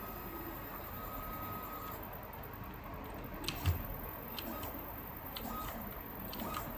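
NEMA 17 stepper motors driving a 5-axis trunnion table through harmonic drives: a steady whine that stops about two seconds in, then short moves with brief whines, clicks and one sharper knock about halfway through.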